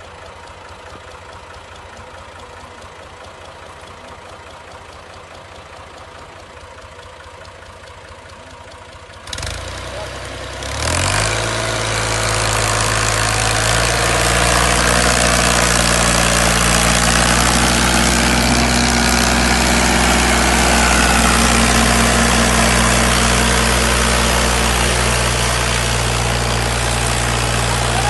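A heavy machine engine running low and quiet, then about nine seconds in it picks up sharply. From about eleven seconds on it runs loud and steady at higher power.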